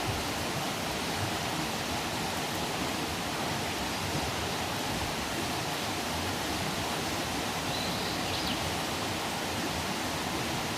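Wood campfire burning with a steady rushing hiss.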